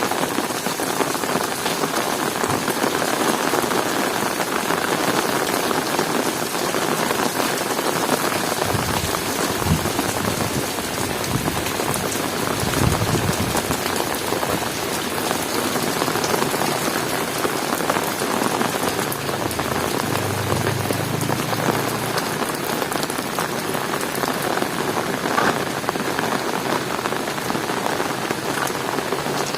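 Heavy rain falling steadily on hard surfaces, a dense even patter. A few low rumbles come through under it, around a third of the way in and again past the middle.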